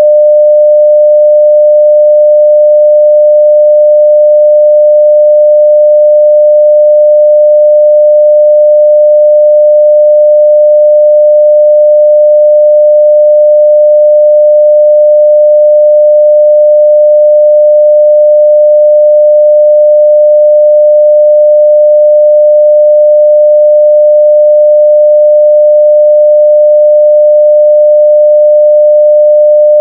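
Continuous 600 Hz sine-wave test tone at full level, one steady pitch without a break.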